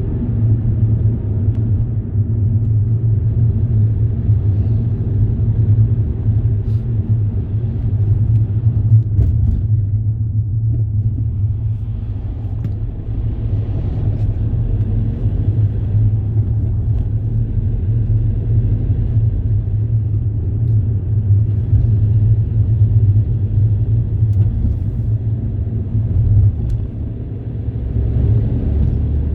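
Steady low rumble of a moving road vehicle, a constant drone with no breaks.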